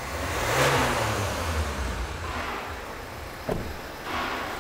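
Hyundai Santa Fe 2.2 CRDi diesel engine revved once, its pitch rising and falling back to idle, as the engine is checked for exhaust smoke and a leak. A sharp click comes about three and a half seconds in.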